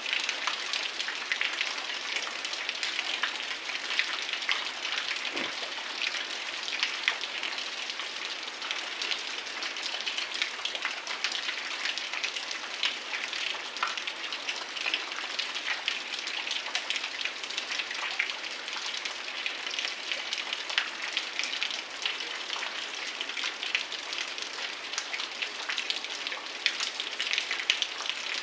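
Heavy rain falling steadily: a dense, even patter of countless drops, with many sharper individual drop hits.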